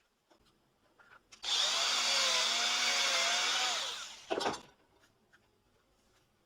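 A small electric motor-driven tool runs steadily for about two and a half seconds with a faint wavering whine, then stops, followed by a brief short burst.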